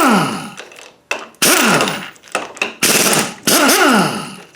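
Impact wrench hammering in short bursts of about a second, three times, each trailing off in a falling whine as the tool winds down; it is spinning out the ring gear bolts, which are left-hand thread.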